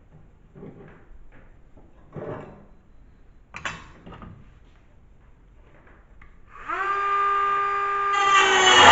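Scattered light knocks and clatter of tools and metal being handled. About two-thirds of the way in, a power tool's motor spins up with a quick rising whine that then holds a steady pitch, and near the end a louder rough noise joins it.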